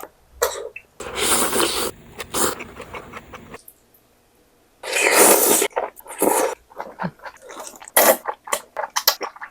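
Slurping malatang noodles and broth: a long slurp about a second in and another around five seconds, with shorter slurps and chewing between.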